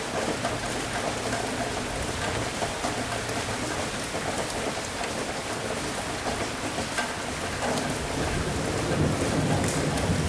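Steady, heavy rain falling, with a low rumble of thunder swelling in over the last couple of seconds.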